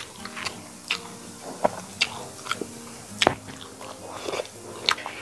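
Close-up eating sounds: chewing and smacking on a mouthful of chicken curry and rice, with about nine irregular sharp mouth clicks.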